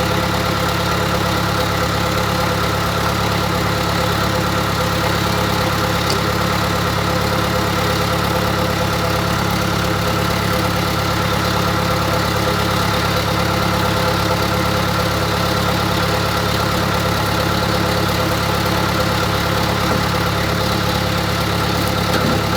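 An engine running at a steady speed throughout, with a deep, even drone and no change in pitch.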